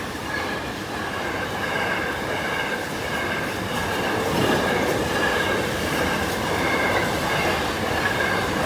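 A long Tesco container freight train rolling slowly past: a steady rumble of wagons on the rails with a thin, steady high ringing from the wheels.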